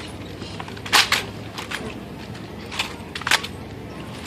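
M1 Garand rifles with fixed bayonets being caught and slapped in silent drill: several sharp, irregularly spaced cracks of hands and rifles meeting, the loudest about a second in.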